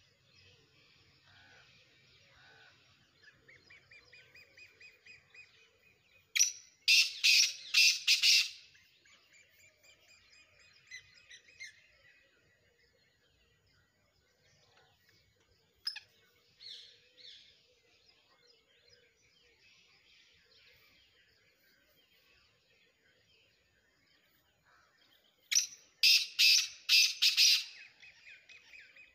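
Black francolin (kala teetar) calling twice, each call a loud two-second series of harsh, grating notes, about twenty seconds apart, with faint chirping from other birds between.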